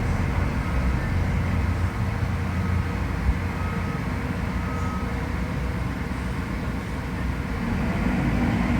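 Mack MRU613 front-loader recycling truck running with a steady low diesel rumble.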